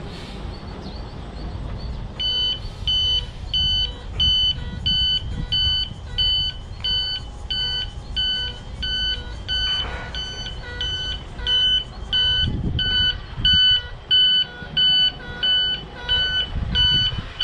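Reversing alarm of a container tractor-trailer beeping steadily at just under two beeps a second, starting about two seconds in, as the truck backs up. The truck's diesel engine runs underneath.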